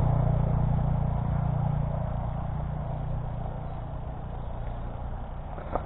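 A road vehicle going by and moving away: a low rumble that fades steadily over several seconds.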